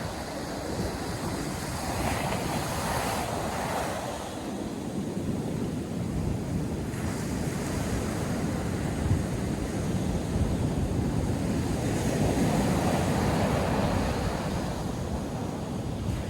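North Sea surf breaking and washing on the beach, a steady rush with slow swells as waves come in, with wind buffeting the microphone.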